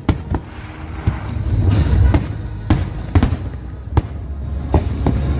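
Aerial fireworks shells from a Parente Fireworks display bursting: a string of sharp bangs about every half second over a steady low rumble.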